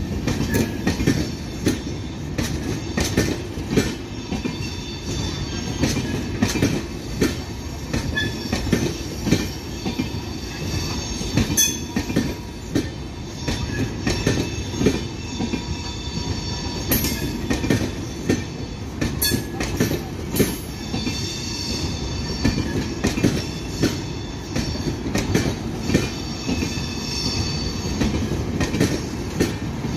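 Passenger train coaches rolling slowly past on the track, with a steady rumble, frequent irregular clacks from the wheels over rail joints, and a faint high wheel squeal.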